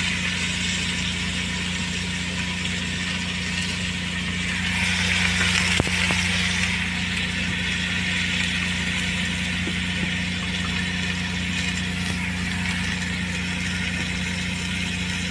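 Chicken gizzards sizzling in hot oil in a pot, an even hiss that swells a little about five seconds in, with a few light clicks of gizzards dropping in. A steady low motor hum runs underneath.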